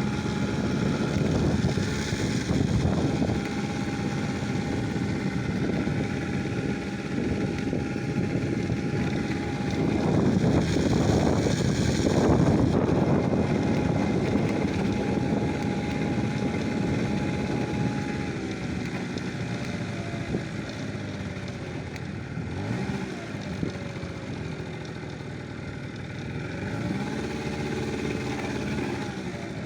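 An engine running under a steady rushing noise, its pitch rising and falling a few times in the latter part.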